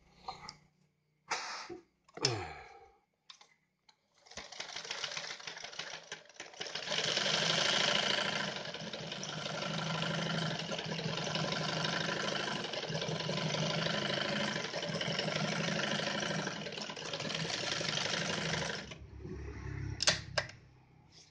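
Yamato 673 zigzag sewing machine stitching: after a few handling clicks it starts up about four seconds in, speeds up a couple of seconds later and runs steadily, then stops with a few sharp clicks near the end.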